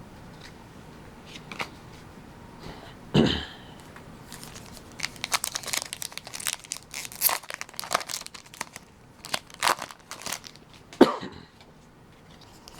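Foil Pokémon booster pack wrapper being torn open and crinkled, a quick run of crisp rips and crackles in the middle. A person coughs once about three seconds in and again near the end.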